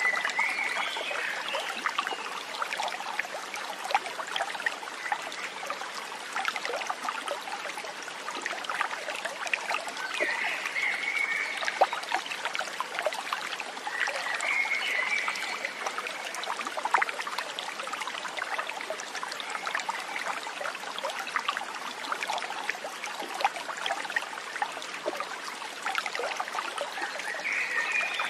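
A small stream trickling and splashing steadily over stones, with many small droplet-like clicks. A short, higher chirping call comes four times: at the start, about ten seconds in, about fifteen seconds in, and near the end.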